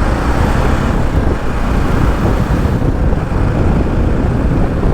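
Steady wind rush and road noise while riding a BMW G 310 GS motorcycle along a highway, a dense, even rumble strongest in the bass with no breaks.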